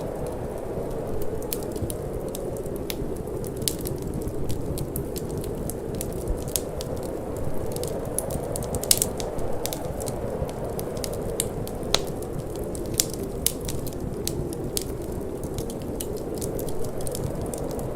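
Wood fire crackling, with frequent sharp pops and snaps over a steady low rush of wind.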